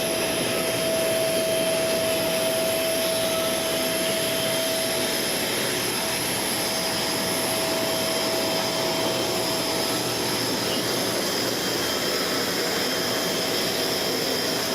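Steady whine and rush of jet turbine noise on an airport apron, with high, even whines and a mid-pitched hum that fades out about ten seconds in.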